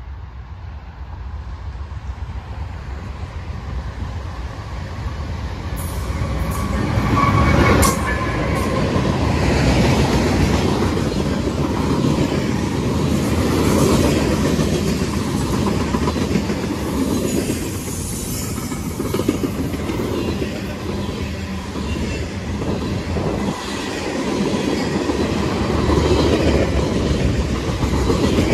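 CSX freight train approaching and passing at trackside. The sound builds over the first eight seconds, then stays loud and steady as the locomotives and cars run by on the rails.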